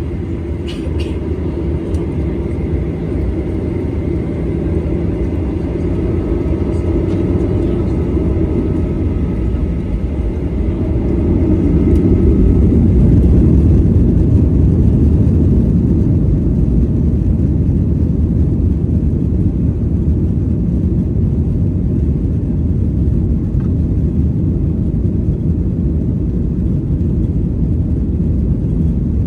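Airliner taking off: a loud, steady low rumble of engines and airframe that swells about eleven seconds in, then eases a little, with a faint whine above it.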